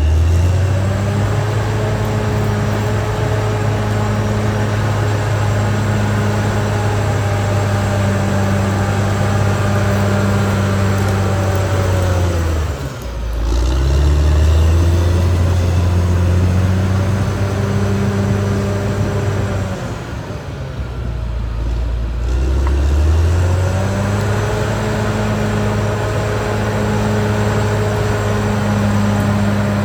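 Caterpillar D6R XL bulldozer's diesel engine running steadily under working load. The engine speed sags and picks back up about halfway through, then drops lower for a few seconds near the two-thirds mark before rising again.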